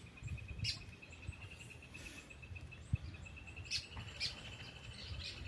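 A steady, rapidly pulsing high trill runs throughout, with a few short, sharp bird chirps over it, about a second in and again near four seconds.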